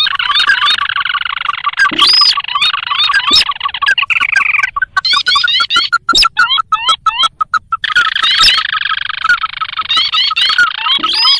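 Recorded calls of the sintar (ruddy-breasted crake), a lure track: a fast, even series of short notes overlaid by dense chattering and slurred rising notes. The chatter drops away about five seconds in, leaving the note series, and returns about eight seconds in.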